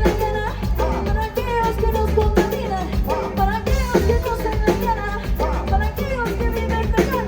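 Live Latin pop band playing an upbeat number, with a drum kit and bass keeping a steady beat under a melody line.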